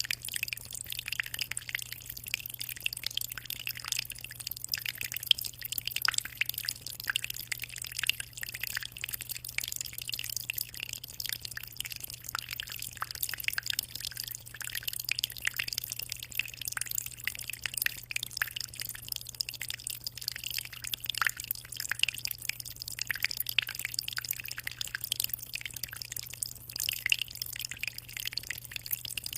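Water in a 60-liter aquarium trickling and splashing in a continuous fine patter of small drips, with a steady low hum underneath.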